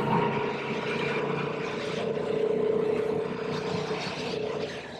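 Yamaha MT-07's parallel-twin engine running at steady revs while riding, its tone falling away near the end.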